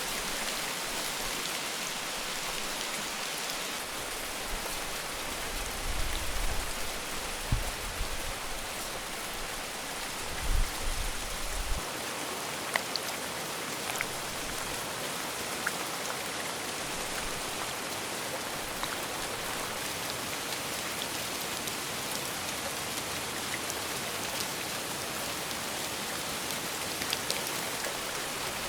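Steady rain falling: a dense, even hiss with scattered drops ticking. A few low thuds stand out between about a fifth and two-fifths of the way in.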